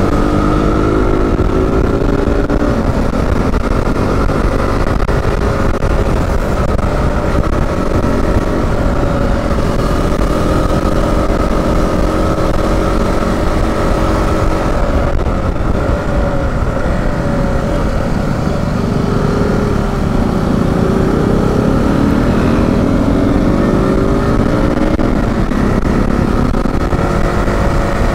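KTM RC 200's single-cylinder engine running steadily at riding speed. The engine note sags about twenty seconds in as the throttle eases off, then climbs again.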